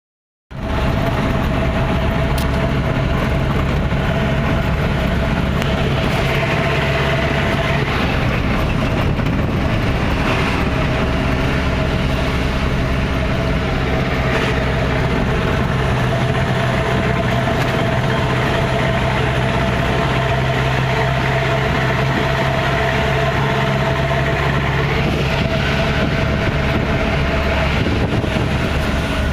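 Truck engine running steadily through a racing exhaust, a deep, even note with no revving.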